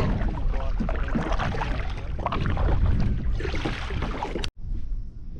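Steady water and wind noise around a kayak on the water, with a low rumble of wind on the microphone. It cuts out abruptly about four and a half seconds in and comes back quieter and duller.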